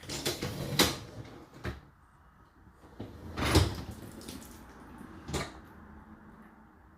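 Dishwasher racks and freshly washed cutlery being handled: a run of clattering knocks and rattles, the loudest about three and a half seconds in and a last one near five and a half seconds.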